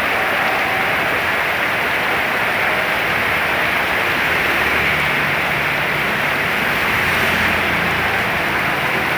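Heavy rain and wind making a steady loud hiss, with a low vehicle engine rumble joining in about halfway through.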